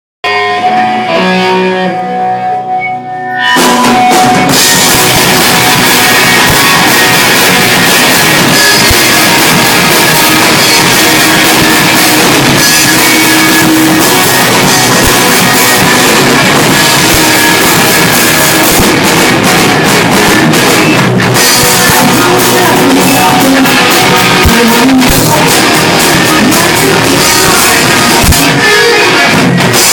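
Rock band playing live: a lone guitar figure for about the first three and a half seconds, then the full band with guitar and drums comes in loud.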